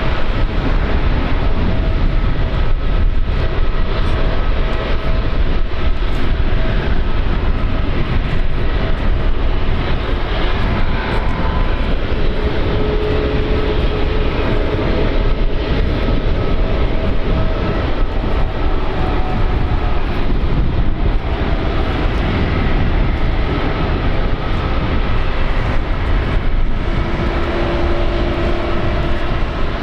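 Jet aircraft engines running: a steady, loud rumble and hiss with faint whining tones that shift in pitch now and then, the strongest near the end.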